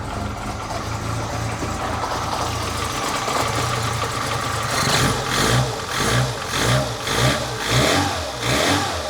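1985 Lancia A112 Abarth's 1050 cc Fiat four-cylinder engine running just after a start on a new distributor cap and rotor, idling steadily at first. From about five seconds in the throttle is blipped over and over, the revs rising and falling about every half second.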